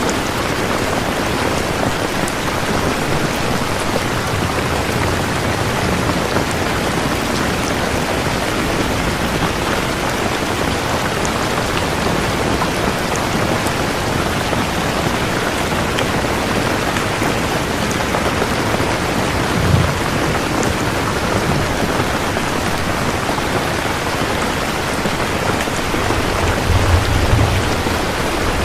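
Steady heavy rain falling on a surface, an even hiss of many drops. A brief low thud comes about two-thirds of the way through, and a low rumble swells near the end.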